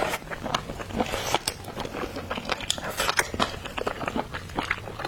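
Close-miked eating of oyster meat: a person biting and chewing with wet mouth noises, a quick irregular run of short sharp clicks and smacks.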